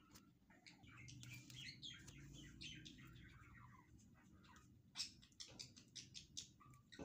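Faint chirping of small birds, short quick notes in clusters, over a low hum.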